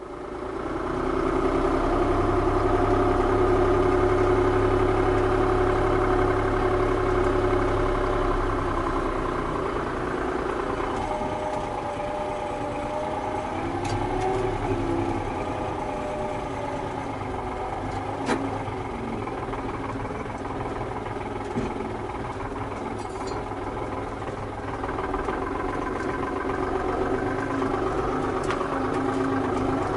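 Tractor engine running, swelling up over the first couple of seconds and staying loud, then easing to a lower, steady level about ten seconds in.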